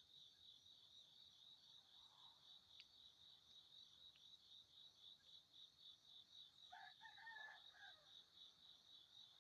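Faint, steady chirping of crickets, about four chirps a second, with a distant rooster crowing once for about a second near the end.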